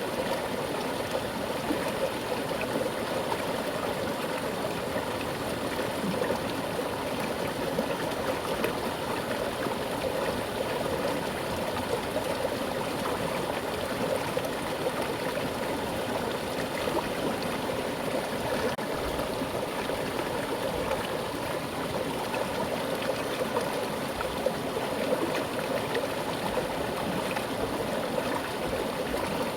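Mountain stream flowing over rocks with a strong current, a steady rushing and gurgling of water.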